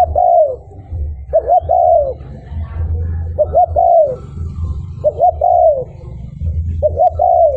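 Spotted dove (cu gáy) crowing its repeated three-note coo, two short notes and a longer falling one, about five times at steady intervals of just under two seconds. It is the male's territorial crow, used as a decoy call to draw wild doves. A steady low rumble runs underneath.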